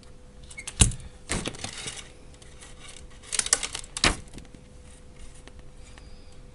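Sharp metallic clicks and short clinking clatters of small metal parts handled on a workbench during battery-pack assembly: four separate strikes spread over about four seconds.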